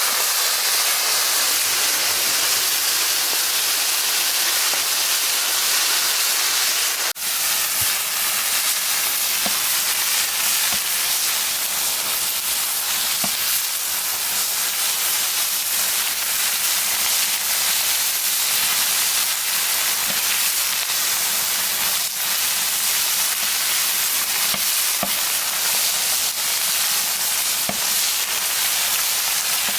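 Food frying in pork fat on a cast-iron cauldron lid: a steady sizzle with scattered small pops and spatters, briefly cut off about seven seconds in.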